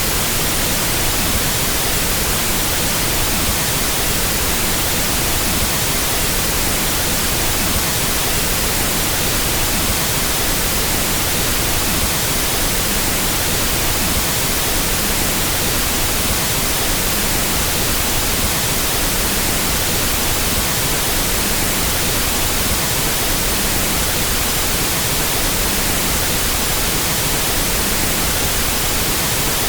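Steady pink noise test signal: an even, unbroken hiss across all frequencies, used for equalizing sound systems.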